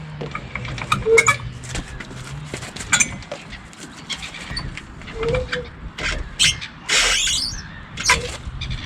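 Scattered knocks and clicks over the low steady hum of an idling vehicle, with a brief loud rush about seven seconds in.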